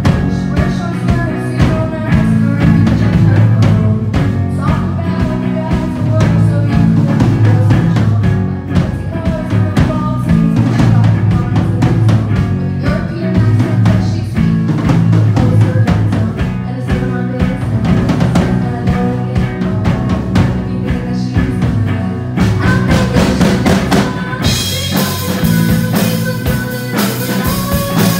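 Rock band playing live, a drum kit keeping a steady beat on bass drum and snare under bass and guitar. About 24 seconds in, the cymbals come in much louder.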